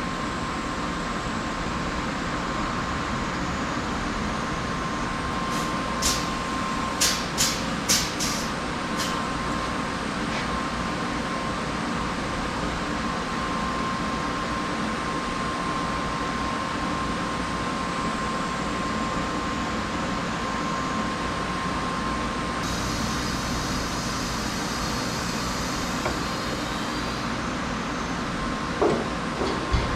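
Steady mechanical hum with a thin high whine, broken about six seconds in by a quick run of five sharp clicks, with a few more clicks near the end.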